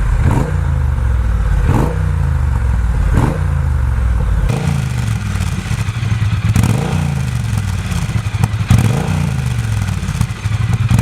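Triumph Bonneville T120's 1200 cc parallel-twin engine, breathing through British Customs Sleeper Pro slip-on silencers, running at idle with a series of short throttle blips that rise and fall again. It is much louder than the stock exhaust.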